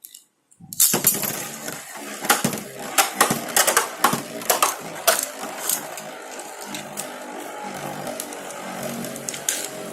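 Two metal-wheeled Beyblade spinning tops, an L Drago Destructor and a fake Rock Leone, launched about a second in, then whirring as they spin and clash with repeated sharp clicks of metal hitting metal. The clashes come thick at first, then thin out as the spinning settles into a steady whir.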